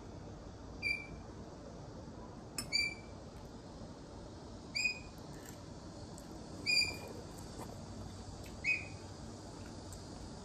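Pet bird chirping: a short, slightly falling call repeated five times, about every two seconds.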